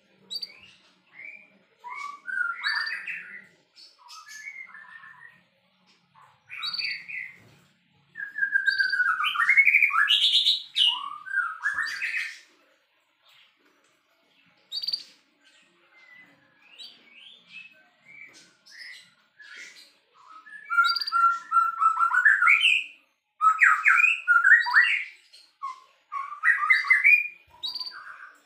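White-rumped shama (murai batu) singing in rapid, varied phrases of sweeping notes, in bouts broken by short pauses; the loudest bouts come about eight to twelve seconds in and again from about twenty seconds on.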